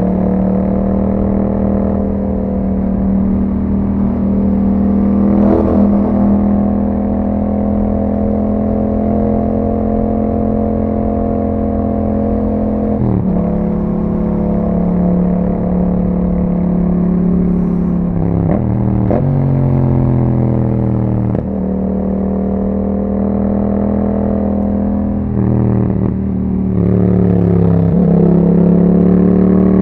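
2021 Yamaha MT-07's 689 cc parallel-twin engine through an Akrapovič exhaust, on the move with the revs drifting up and down. The pitch breaks sharply several times for gear changes, about halfway through and again near the end, and the engine gets louder in the last few seconds.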